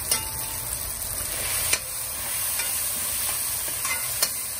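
Chopped onion, tomato and sweet pepper sizzling in hot oil in a pot while a metal spoon stirs them, with three sharp knocks as the spoon strikes the pot.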